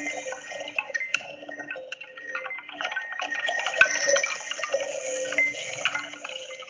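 Playback of an electroacoustic sound-art piece: scattered clinks and drip-like clicks over sustained tones, with a low tone repeating in short notes.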